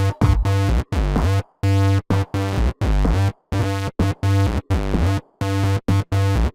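Electro house music at 130 bpm: buzzy synth stabs over heavy bass, some sliding in pitch, chopped into short pieces that cut off abruptly to silence and restart several times a second.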